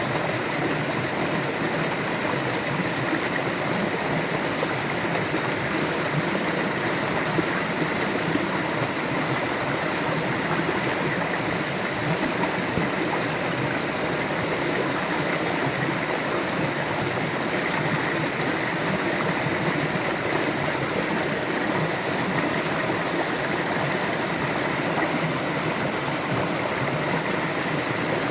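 A river flowing, a steady rush of water over stones.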